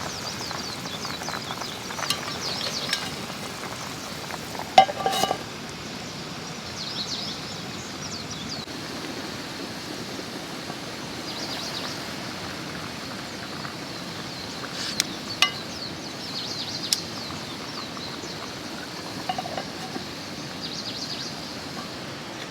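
Food sizzling in a cooking pan, a steady hiss broken by a few sharp metallic clinks of cookware, one about five seconds in and a cluster later on.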